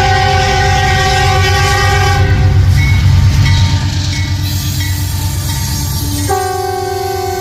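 Diesel locomotive's multi-chime air horn sounding a long blast that cuts off a little over two seconds in, then sounds again near the end, over a steady low rumble from the train.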